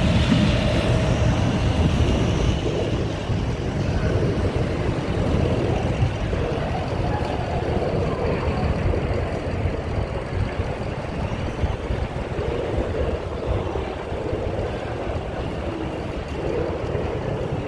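Steady low rumble of vehicle noise, with faint voices in the background.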